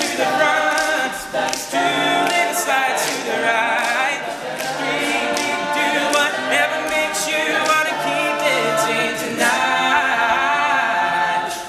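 Male a cappella group singing an upbeat song in close harmony, with sharp percussive hits keeping a steady beat about twice a second.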